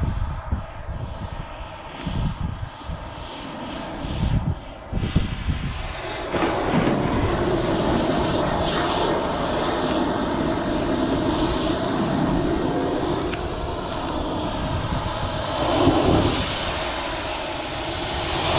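Model jet's turbine engine whining at high pitch, growing louder about six seconds in. Near the end the pitch sweeps up and down as it passes.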